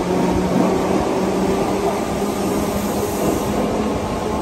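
Merseyrail electric multiple unit running out of an underground station platform, its wheels and traction motors making a steady hum with a few held tones as the last carriage passes. The sound echoes in the enclosed tunnel platform.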